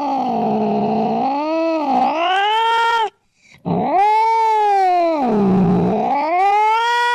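Cat yowling: two long, drawn-out calls, each sliding down in pitch and back up again, with a short break about three seconds in.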